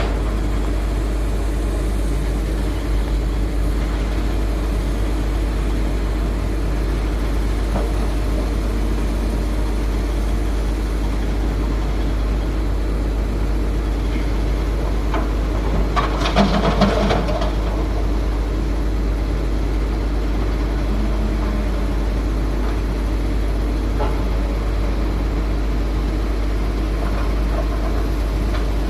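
Heavy diesel engines of an excavator and dump truck running steadily during loading, with a brief louder burst of noise about sixteen seconds in.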